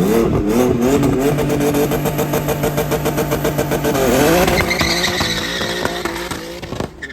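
Car engine revved in several quick blips, then held with a fast stuttering pulse of about ten beats a second, before it climbs in pitch as the car accelerates hard. The sound cuts off abruptly near the end.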